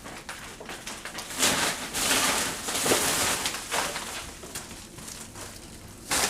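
Plastic packaging crinkling and rustling as frozen items are handled and moved around in a freezer, loudest for a couple of seconds about a second and a half in, with a few small knocks.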